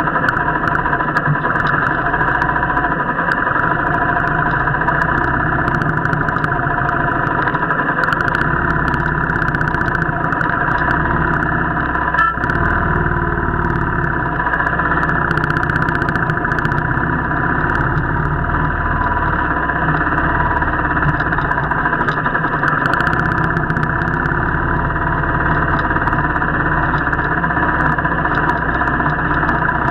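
Royal Enfield motorcycle engine running steadily while riding.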